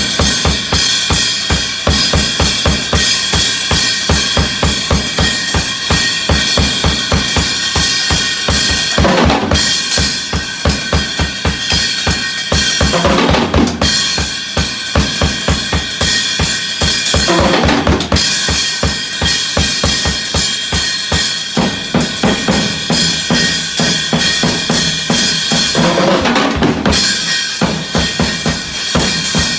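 Drums playing a steady beat: a bass drum pulsing about three times a second with snare hits over it, and a short fill several times through.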